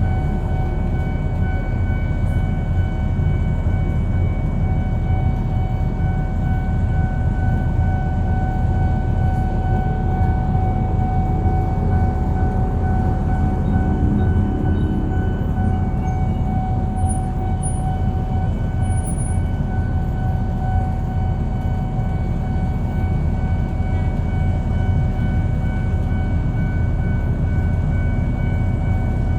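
A train passing close by with a steady, heavy rumble. A steady high tone runs over it the whole time.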